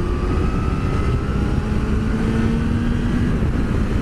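Sport bike's inline-four engine running under way, with its revs climbing slowly as it accelerates, over steady rumble and wind noise on a helmet microphone.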